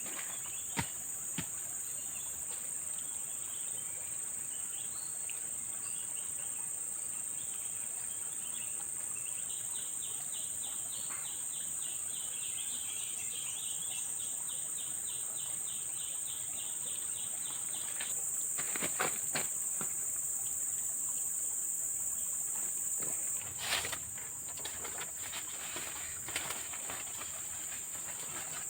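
Forest insects droning steadily at a high pitch, growing louder for about five seconds past the middle and then dropping back. A fast pulsing trill runs through the middle, and a few sharp clicks and knocks come near the start and toward the end.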